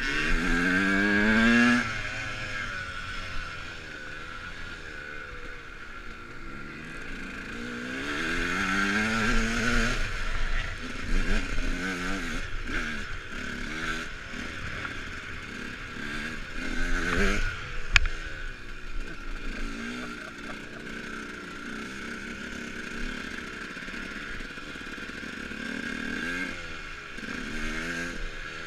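Dirt bike accelerating again and again, its pitch rising in sweeps as it is ridden over the ground, the loudest pull in the first two seconds. A sharp click about eighteen seconds in.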